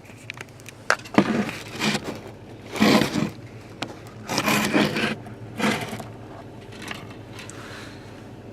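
A series of five or six short scraping, rubbing noises, roughly a second apart.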